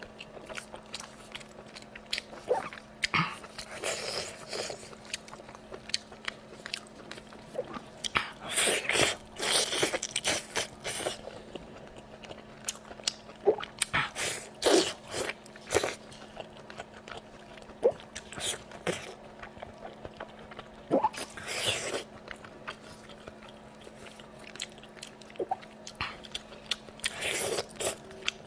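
Close-miked eating sounds: chewing, biting and wet mouth clicks, with a few longer smacking bursts, over a faint steady hum.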